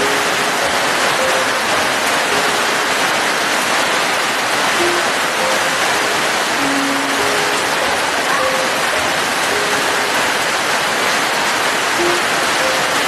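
Steady rain, an even hiss with no let-up, with a slow, sparse melody of single music notes laid over it.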